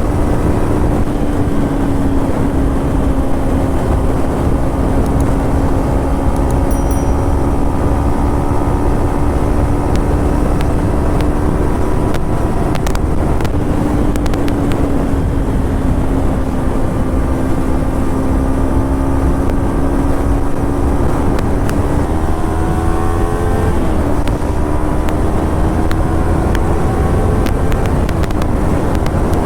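Kawasaki Ninja 300's parallel-twin engine and exhaust under way, holding a steady note that sags slightly, then rising in pitch as the throttle opens about three-quarters of the way in, with a sudden drop like a gear change before it climbs again.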